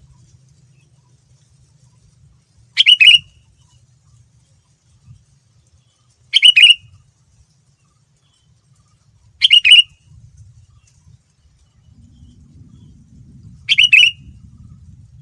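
Sooty-headed bulbul (kutilang) calling: four short, loud bursts spaced a few seconds apart, over a faint low hum.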